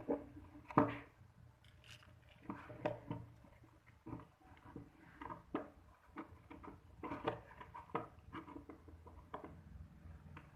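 Irregular light clicks and knocks, a dozen or more at uneven spacing, of small parts and tools being handled during the repair of an electric drill; the drill's motor is not running.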